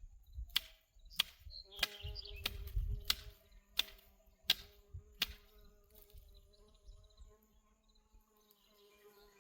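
A run of sharp knocks about every two-thirds of a second that stops after about five seconds, over a steady low buzz. There is a low rumble during the first few seconds.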